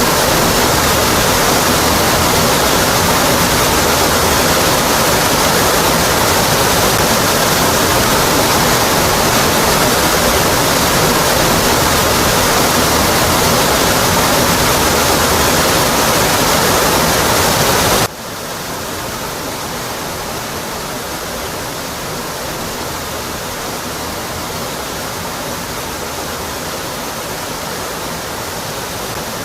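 Rocky Brook Falls, a waterfall, pouring onto rock with a steady, full rush. About 18 seconds in the sound cuts abruptly to a quieter, thinner rush with less low rumble, then holds steady.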